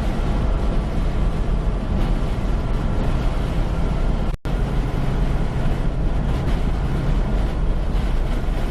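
Semi-truck cab at highway speed: a steady diesel engine drone under road and wind noise. The sound cuts out for a split second about four seconds in.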